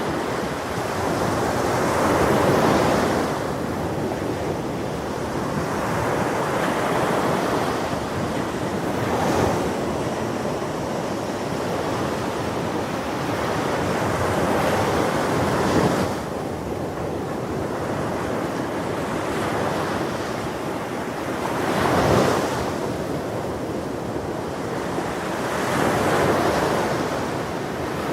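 Ocean waves breaking on a shore, a continuous wash of surf that swells into a louder break every few seconds, with some wind on the microphone.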